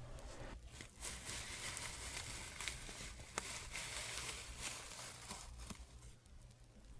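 Soft scratching as an ASMR trigger: a faint, scratchy rustle with small clicks that starts about a second in and fades near the end.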